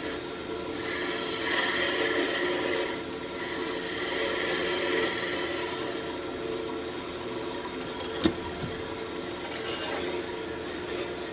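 Wood lathe spinning a walnut wand blank while a turning tool scrapes detail into it in passes with short breaks. About six seconds in the cutting stops and the lathe runs on more quietly; a single click comes a little after that.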